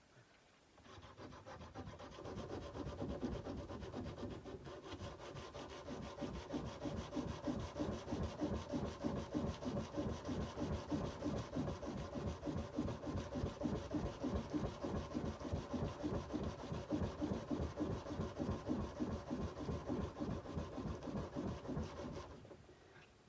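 Sandpaper rubbed by hand along the steel of a kukri blade in quick, even back-and-forth strokes; the sanding starts about a second in and stops shortly before the end.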